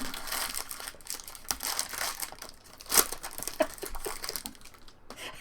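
Trading card pack wrappers being torn open and crinkled, a steady rustling crackle, with one sharper crackle about three seconds in.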